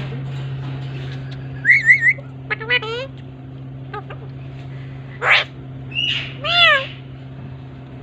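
Green ringneck parrot (rose-ringed parakeet) calling: three quick chirps, then a rapid rising trill, a harsh squawk about five seconds in, and a longer arched call near the end. The calls sit over a steady low hum.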